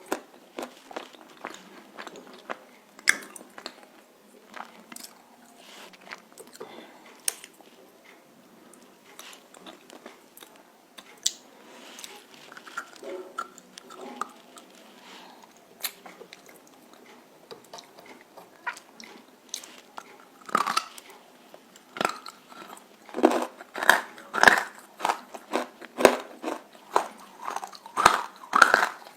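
Roasted edible clay (nakumatt) being bitten and chewed close to the microphone: sharp, crisp crunches and crackles, sparse at first, then coming thicker and louder in the last third.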